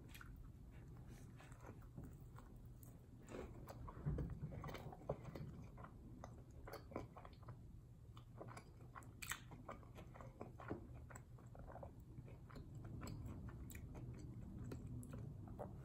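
Faint biting and chewing of a crispy fried chicken sandwich on a soft brioche bun, with irregular soft crunches, a little louder about four seconds in and again around nine seconds.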